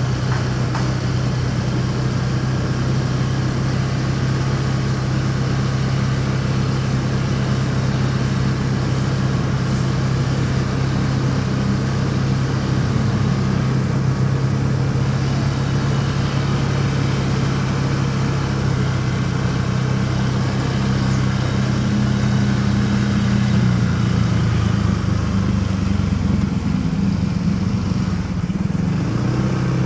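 Motorcycle engine running steadily while riding in city traffic, with road and traffic noise around it; the engine note shifts in pitch in the last few seconds.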